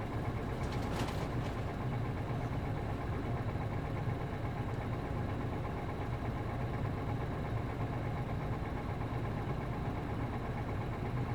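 MD92TJ diesel engine of a PKG-AA274KAN route bus idling steadily. A short burst of hiss comes about a second in.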